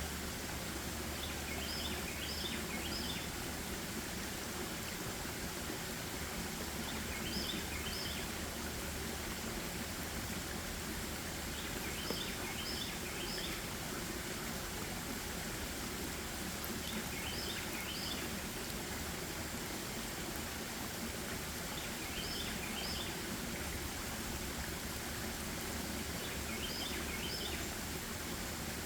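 Forest ambience: a steady rush of running water, with a small bird singing a short burst of quick chirped notes about every five seconds, six times in all.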